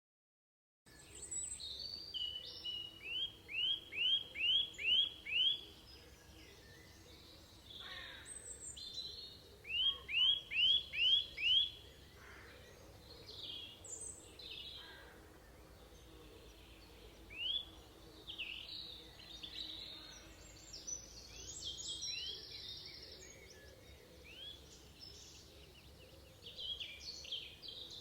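Birds singing: one bird repeats a quick series of five or six rising whistled notes, twice, while other birds chirp in between.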